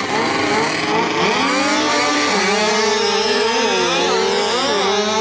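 Several 80cc speedway motorcycles revving at the start line, the engine notes of different bikes rising and falling unevenly as the riders work their throttles.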